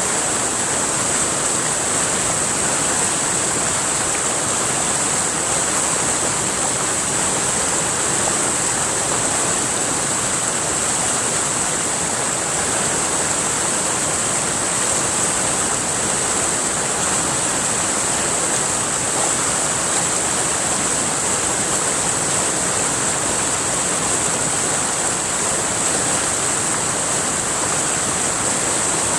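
Flowing river water rushing steadily, with a constant high-pitched hiss over it.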